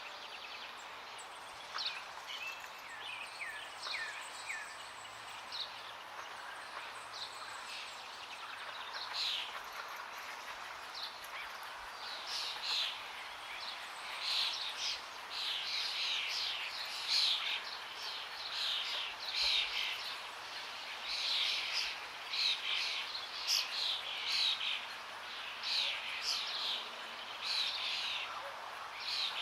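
Many wild birds chirping and calling in short, quick notes over a steady background hiss. The calls grow busier and louder about twelve seconds in.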